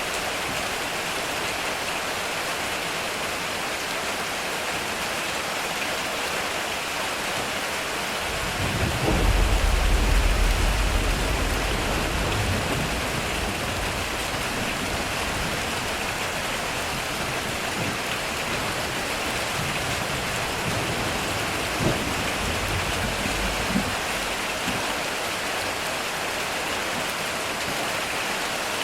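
Heavy rain falling steadily on a metal roof. About a third of the way in, a deep rumble of thunder swells and fades over a few seconds, and two brief sharp clicks come later.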